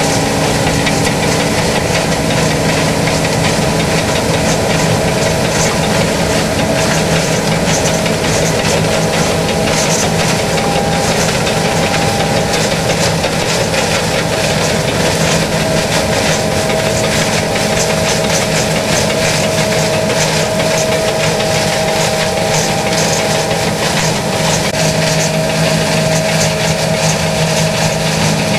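John Deere S660i combine harvester running steadily, a constant engine hum with the whir and rush of its harvesting machinery.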